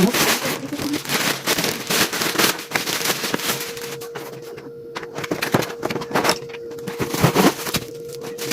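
Packaging of a ring light and tripod kit being unwrapped and torn open by hand: a dense run of plastic crinkling and rustling crackles. A faint steady hum comes in a few seconds in.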